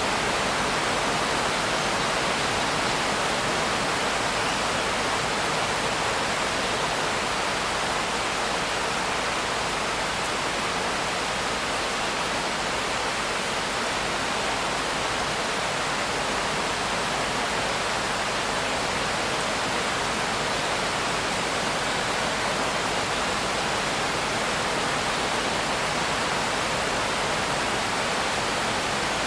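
Steady, even rain hiss with no separate drops, thunder or other events, sounding much like smooth pink noise.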